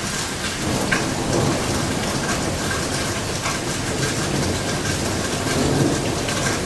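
Steady heavy rain falling and pattering on surfaces, with a few sharp drips. A low rumble of distant thunder swells about a second in and again near the end.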